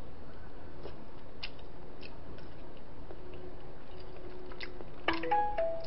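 A person chewing food, with scattered faint clicks of chopsticks against the bowl, over a steady background hiss. About five seconds in, a short chime of a few stepped tones sounds.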